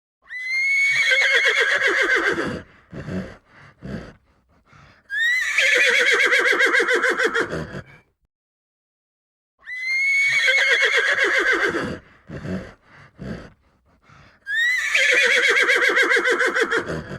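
Horse whinnying: two long whinnies a few seconds apart with short breathy sounds between them, then the same sequence again after a brief pause.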